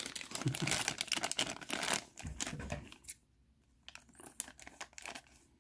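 Plastic bags of miniatures crinkling and rustling as they are handled, busy for about two seconds, then a brief pause and a few lighter, scattered rustles and clicks.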